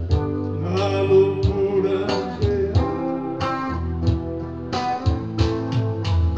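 Live music: electric-acoustic guitar playing over a bass line and a steady beat, with a lead line that bends in pitch about a second in.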